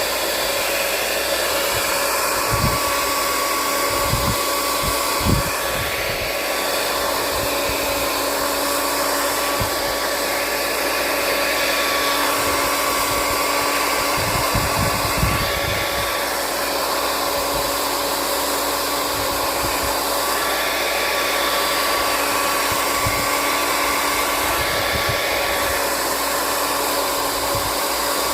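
Hand-held hair dryer running steadily, a loud rush of air with a constant motor whine in it, blowing on glue to soften it. A few low thumps are mixed in.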